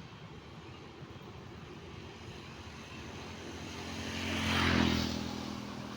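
A motor vehicle passes close by, its engine and road noise swelling to a peak about five seconds in, then easing off.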